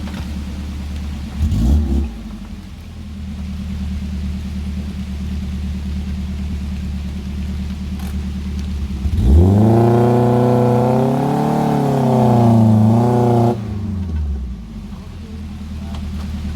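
Off-road 4x4's engine idling, with a short blip of the throttle near the start, then revved hard for about four seconds, the pitch rising and wavering before it drops suddenly back to idle.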